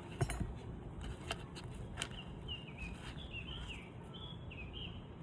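A bird chirping a quick series of short notes through the middle, over a steady outdoor background hum, with a few sharp clicks, the loudest one just after the start.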